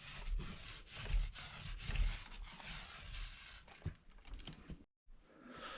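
Paint roller being rolled over drywall with fresh paint: a faint crackling swish in repeated strokes, breaking off suddenly about five seconds in.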